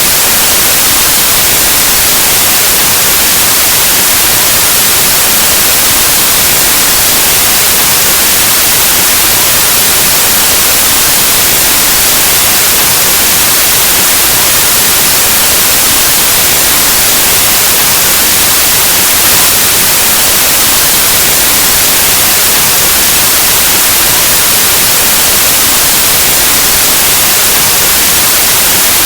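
Steady white noise: an even, unbroken static hiss across the whole range of hearing, like an untuned analog television or radio.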